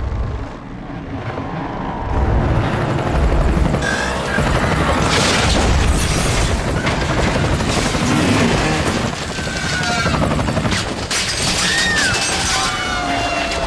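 Helicopter crash sound effects: heavy rumbling and booms that swell about two seconds in, with crashing impacts later on, over dramatic music.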